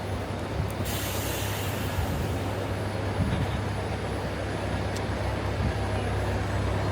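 Steady low rumble of city traffic, with a brief hiss about a second in.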